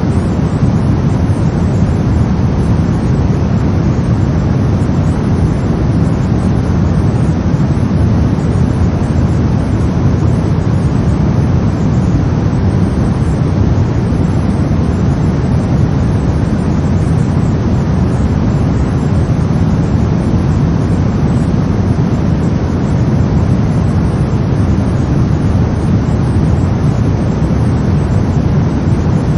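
Brown noise: a steady, deep, rumbling hiss with most of its weight in the low end, unchanging throughout.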